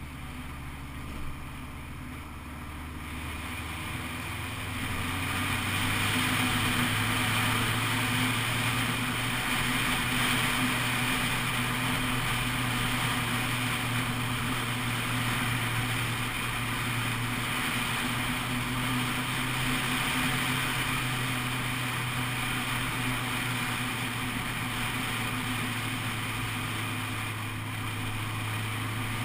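Honda CBF 600 SA motorcycle's inline-four engine running under way, rising in pitch and getting louder about three to five seconds in, then holding a steady note. Wind noise rushes over the microphone throughout.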